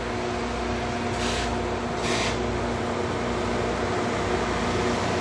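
Loram rail grinder train running on the track: a steady roar with a low machinery hum under it, and two short hisses about one and two seconds in.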